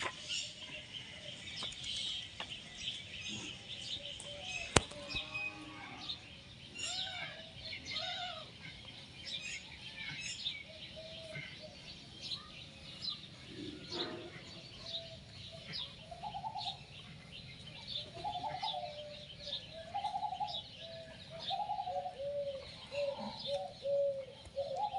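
Birds chirping and calling in the background: many short high chirps and repeated short warbling calls. One sharp click sounds about five seconds in.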